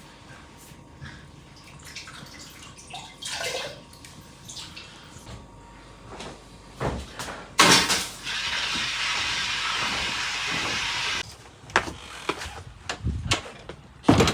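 Water running steadily for about three and a half seconds, starting with a sharp knock and cutting off abruptly, amid scattered knocks and clatter of handling.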